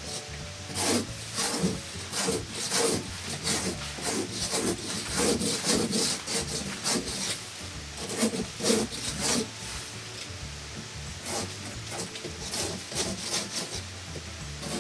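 Hand tool scraping and rasping against a wall in quick, irregular strokes, dense for the first several seconds and then sparser.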